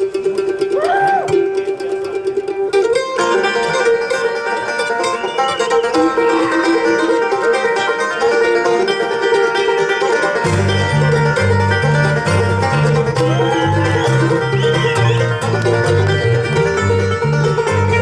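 Live bluegrass band playing an instrumental break, banjo to the fore with guitar and mandolin. A single held note opens it, the full band comes in about three seconds in, and steady bass notes join about ten seconds in.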